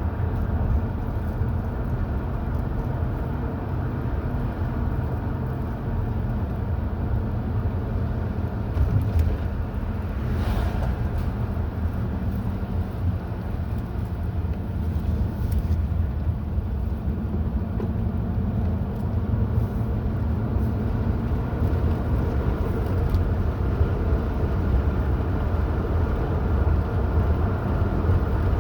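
Car being driven at road speed: engine and tyre noise making a steady low rumble.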